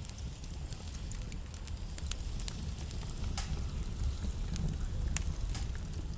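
Wood fire burning in a fireplace: a steady low rumble of the flames with frequent sharp crackles and a few louder pops from the burning logs.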